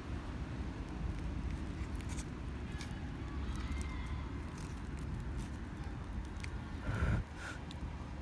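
Wood campfire crackling, with scattered sharp pops over a steady low rumble and a louder knock about seven seconds in.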